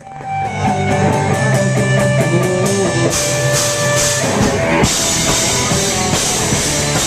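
Rock band playing an instrumental opening on drum kit and guitars, starting abruptly, with the cymbals growing louder about three seconds in.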